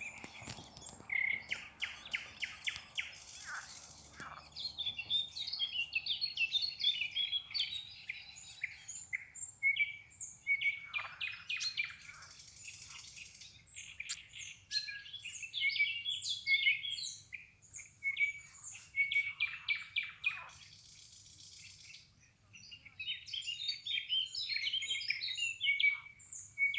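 Several songbirds chirping and singing together: rapid trills, quick repeated high notes and short whistles that overlap with little pause.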